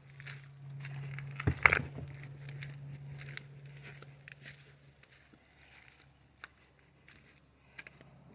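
Rustling and crinkling handling noises, with a short louder clatter about one and a half seconds in, over a low steady hum that fades about five seconds in.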